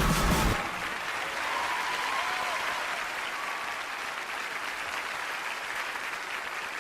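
Studio audience applauding steadily. A music track with a beat cuts off about half a second in, leaving only the applause.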